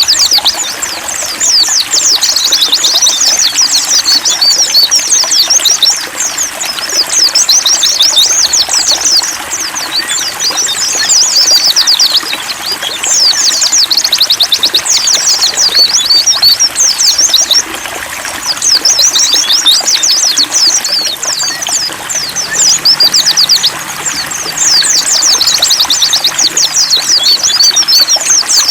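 White-eye (pleci) song: loud, very rapid twittering in repeated phrases of a few seconds with short breaks, over a steady sound of trickling water.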